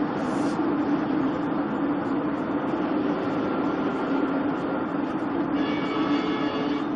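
Steady rumble of a vehicle on the move, road and engine noise at an even level. Near the end a held pitched tone with many overtones sounds for about a second and a half.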